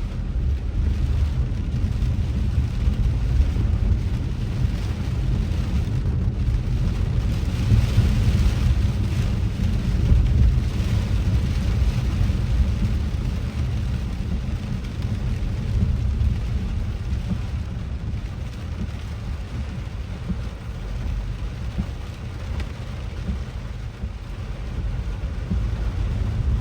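Steady low rumble of a car driving in heavy rain, heard from inside the cabin, with a hiss of rain and wet road noise over it.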